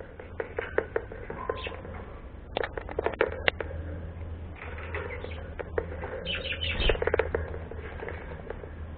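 A pet bird's wings flapping in short flurries of rapid beats, three times, with a faint brief chirp between the first two.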